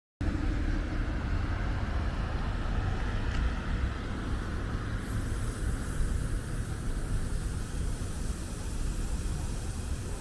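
Street ambience dominated by road traffic: a steady rumble of passing cars with a heavy low-end.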